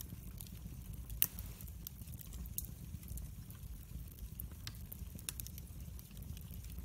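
Wood fire burning in a fireplace, crackling with irregular sharp pops over a low rumble of the flames; one louder pop about a second in.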